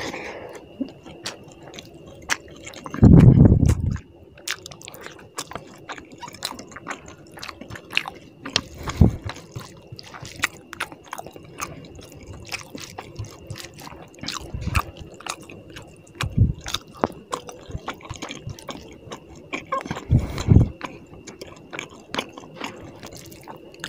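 Close-up wet chewing and mouth clicks of a person eating fish curry and rice by hand, with squishing of the sauced rice. Several louder low thuds cut in, the loudest about three seconds in.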